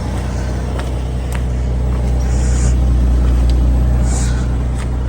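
GM Vortec 4200 inline-six of a 2005 GMC Envoy idling steadily, with a few faint ticks over the hum.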